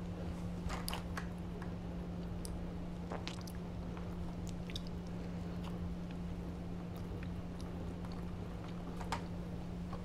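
Close-miked chewing and mouth sounds of someone eating fried chicken strips, fries and toast, with a few short wet clicks and crunches scattered through. A steady low hum runs underneath.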